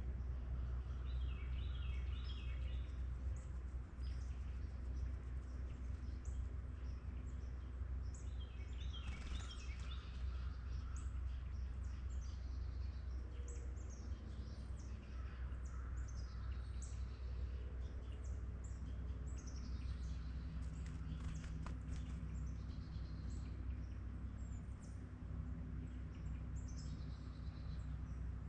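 Small birds chirping and calling again and again, with a couple of quick descending runs of notes, over a steady low rumble.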